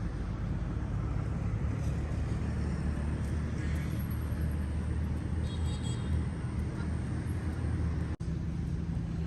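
Steady road traffic noise with a low engine hum, cut by a brief dropout about eight seconds in.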